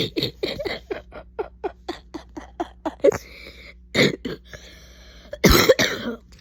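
A sick woman coughing: a quick run of short coughs over the first three seconds, then two separate hard coughs, the louder one about five and a half seconds in.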